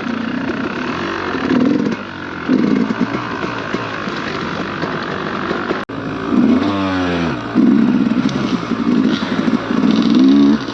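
Dirt bike engine running under changing throttle, with repeated surges as the throttle is opened and a rising rev about six and a half seconds in.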